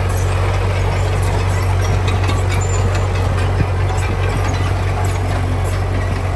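Heavy diesel engine of construction machinery running steadily with an even, low hum.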